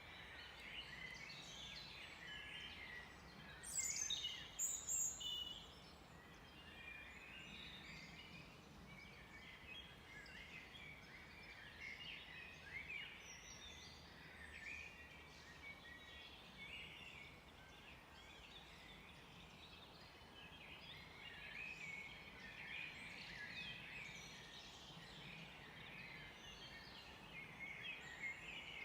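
Many songbirds chirping and singing at once, a faint continuous chorus of overlapping calls, with a louder, sharper call about four seconds in.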